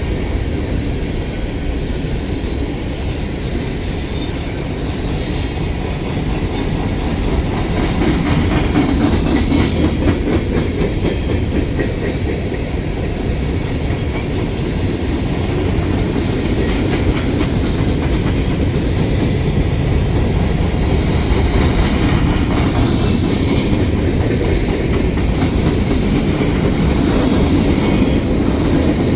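Empty coal cars of a freight train rolling past with a steady rumble and the clatter of wheels over the rails, broken by a few short, high wheel squeals.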